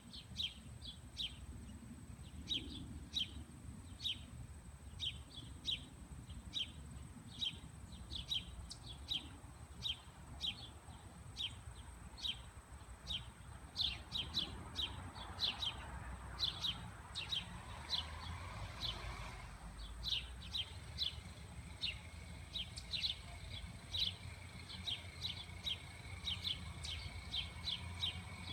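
A bird chirping over and over, short high notes about two or three a second throughout, over a faint steady high-pitched whine.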